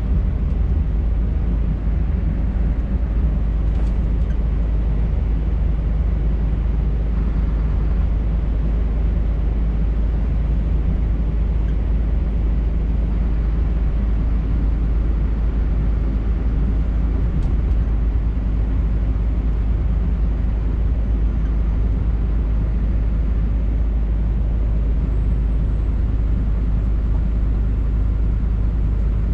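Scania R580 truck's V8 diesel engine and tyre noise while driving, a steady low drone with no change in pace.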